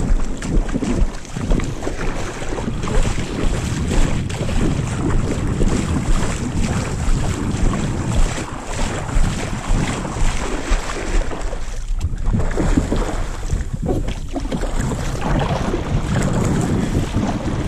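Wind buffeting the microphone, a rough rumbling rush, over water washing around a kayak; it grows a little louder near the end.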